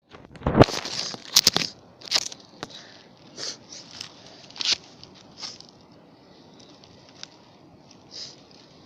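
Hand-made firecrackers going off in a ragged series of sharp pops and crackles, thickest and loudest in the first two seconds, then thinning out to scattered, fainter cracks.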